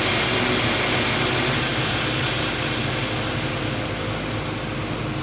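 An engine running steadily with a low hum under an even rushing noise.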